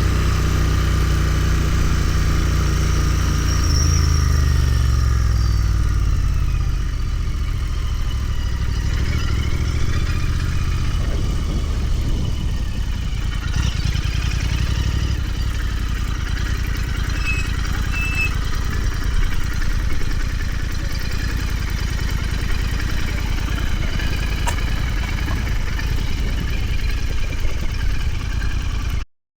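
Royal Enfield Continental GT 650's 648 cc parallel-twin engine running on the move. The engine note falls over the first several seconds as the bike slows. It then runs steadily at lower revs and cuts off abruptly near the end.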